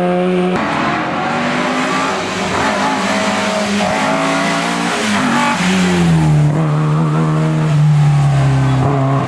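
Rally car engine at stage pace, revving hard with the pitch jumping up and down through gear changes; a little past halfway the pitch falls and holds steady and lower as the car goes by.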